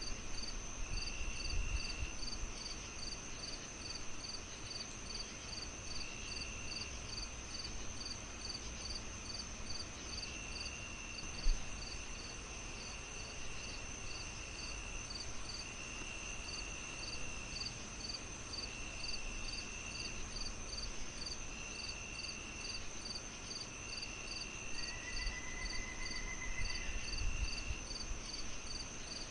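Crickets chirping in layers, with rapid even pulses, a steady high trill and repeated trills about a second long, over the low hiss and crackle of a fireplace. One sharp pop comes about eleven seconds in.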